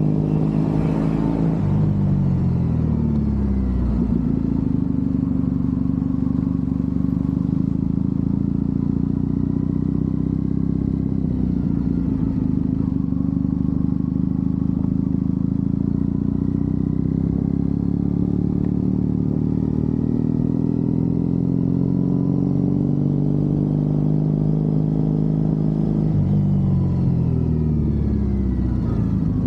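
Triumph Bonneville parallel-twin motorcycle engine running under way, heard from the rider's position. The engine note falls about two seconds in and again near the end, as the rider eases off, with a brief rush of noise near the start.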